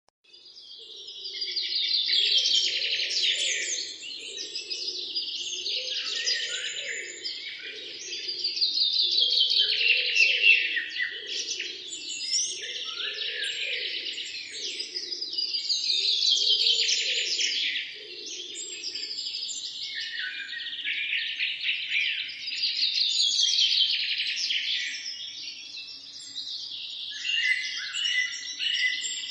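Several songbirds singing at once, fast high trills and chirps overlapping, with a louder song swelling in about every seven seconds. A fainter low pulsing sound runs underneath until about two-thirds of the way through. The sound fades in from silence at the start.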